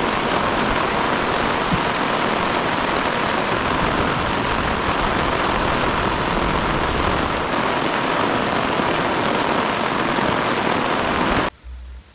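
Heavy rain pouring down in a loud, steady rush that cuts off abruptly near the end.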